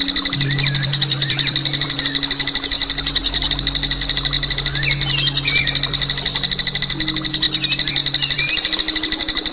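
A songbird singing a long, unbroken rolling trill: rapid, evenly repeated high notes, many to the second, with fainter short chirps of other birds underneath.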